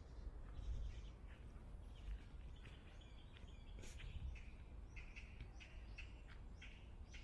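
Small birds chirping: a run of short, high notes that come more often in the second half. A steady low rumble lies underneath, with one sharp click about four seconds in.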